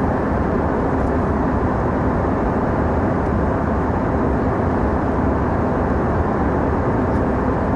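Passenger airliner cabin in flight: a steady, unbroken hum of engine and airflow noise, heavy in the low and middle range with little treble.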